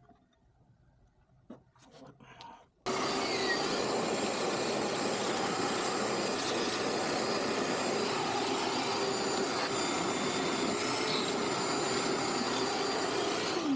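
A vacuum cleaner starts suddenly about three seconds in and runs steadily with a constant hum, then is switched off near the end, its pitch dropping briefly as the motor winds down.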